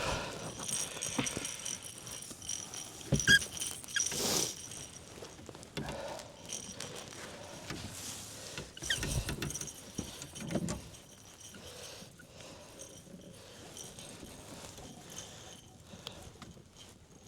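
Irregular rattling and clinking with scattered knocks, the loudest knock a little after three seconds in and a few more around nine to eleven seconds, growing quieter toward the end.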